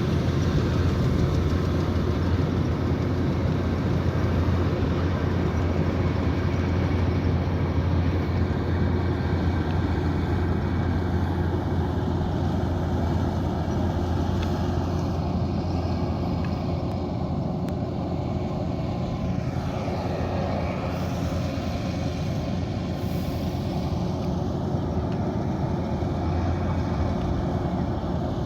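Kubota DC108X combine harvester's diesel engine and threshing machinery running steadily, a continuous low drone.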